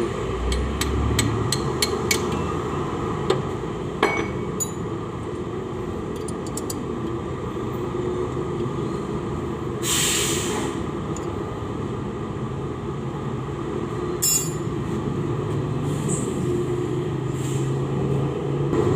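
Quick hammer taps on metal engine parts, about three a second, for the first two seconds, then a few single metal clinks and a short hiss about ten seconds in, over a steady low background rumble.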